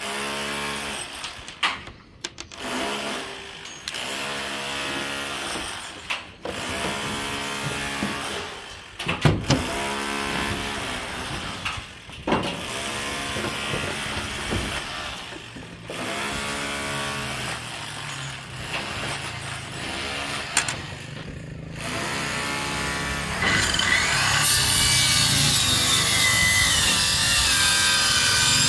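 Power tools on a construction site running in repeated short bursts of a second or two each. Near the end a louder, steady sawing sound takes over.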